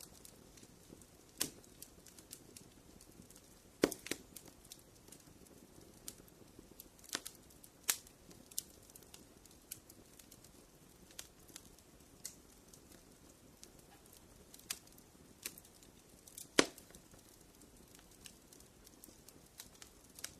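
Wood fire crackling in a fireplace: irregular sharp pops and snaps over a soft, low hiss. The loudest pops come about four seconds in and again a few seconds before the end.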